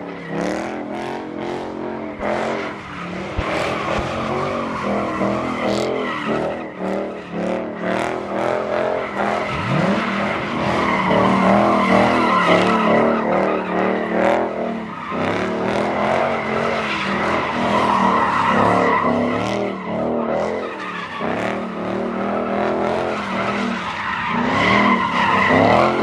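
Car engine revving hard with tires squealing and skidding, as in donuts or a burnout, the squeal held for long stretches over the pulsing engine note.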